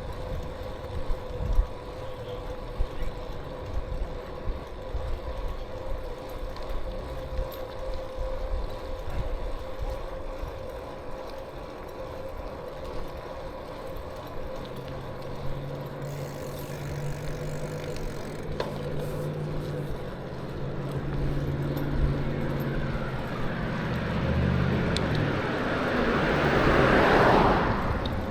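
Wind and road noise on a moving bicycle. About halfway through, a motor vehicle's engine note comes in and grows, and near the end its tyre and engine noise swells to the loudest point as it passes close by, then falls away.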